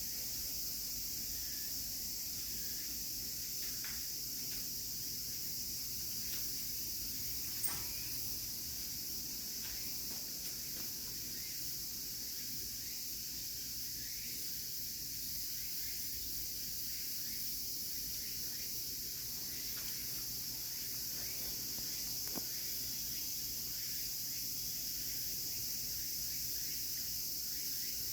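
Steady high-pitched chorus of insects, with a couple of faint taps.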